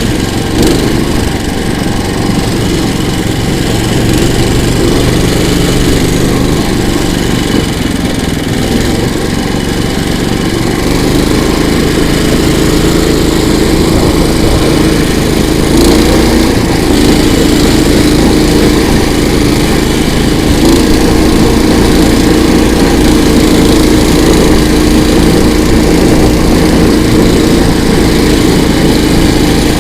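Engine of a KOiRA all-season motorized towing sled running steadily under load as it is driven, getting a little louder after about ten seconds.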